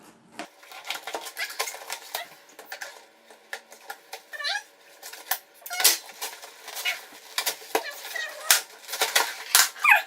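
Fast-forwarded sound of a trading-card box being opened and handled: rapid clicking and rustling of the packaging, with brief squeaky snatches of sped-up voice.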